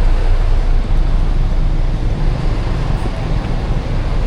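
Loud, steady low rumble of a large vehicle passing close by.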